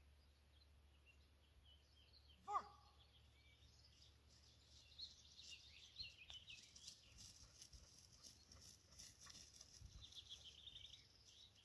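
Near silence with faint birdsong, many small high chirps growing busier in the second half, and one short, louder call about two and a half seconds in.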